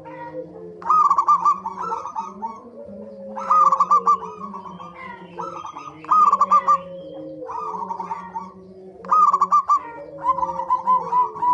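Several zebra doves (perkutut) cooing over one another: loud bursts of quick, staccato notes every one to three seconds over lower, softer drawn-out coos that slide down in pitch.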